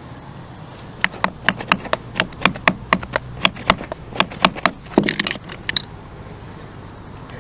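A quick series of sharp taps or knocks, roughly four a second, starting about a second in and stopping after about four seconds.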